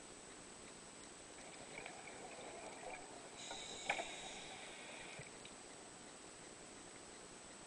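A scuba diver breathing through a regulator underwater: a faint breath hiss, with a single sharp click about four seconds in.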